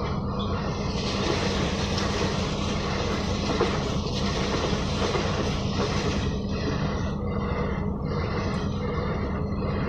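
Train running at speed on the rails: a steady rumble and hum with a regular pulsing beat, with more hiss from about one second in until about six seconds in.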